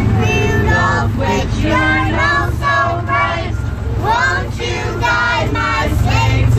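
Children's voices singing together, high and continuous, over a steady low rumble.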